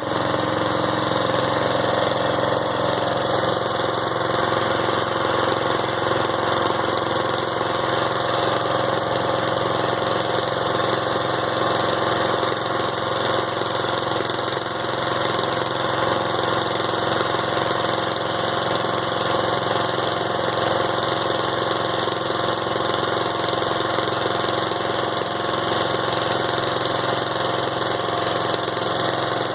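Riding lawnmower's engine running steadily while the mower is driven, its fuel tank all but empty.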